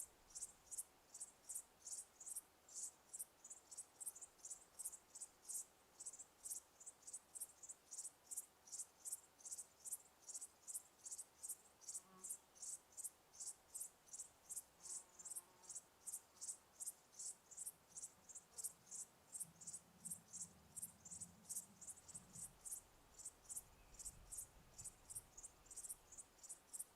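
A cricket chirping steadily and evenly, about two to three high-pitched chirps a second.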